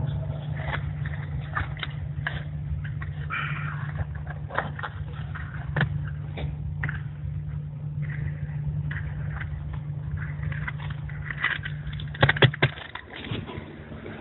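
A chimney fire burning inside the flue: a steady low rumbling roar with frequent crackling and popping. Several loud cracks come near the end, and then the roar drops away.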